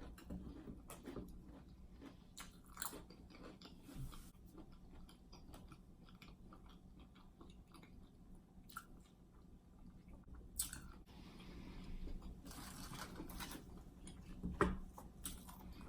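Close-miked chewing and crunching of a mouthful of seafood buffalo dip: faint, irregular bites and wet mouth sounds with a few sharper crunches.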